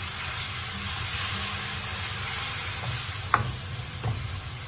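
Onion-and-spice masala sizzling steadily in oil in a non-stick wok while it is stirred with a spatula, with a little water added so the spices don't burn. A single sharp knock sounds a little over three seconds in, and a lighter one near the end.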